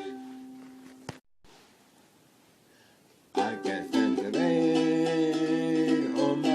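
Music on a strummed string instrument: a chord rings out and fades, about two seconds of near quiet follow, then playing resumes with a loud, held chord.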